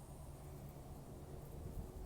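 Faint low rumble with a faint steady hum underneath.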